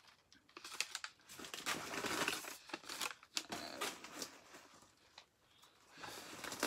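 Crumpled newspaper packing being handled, rustling and crinkling in irregular bursts.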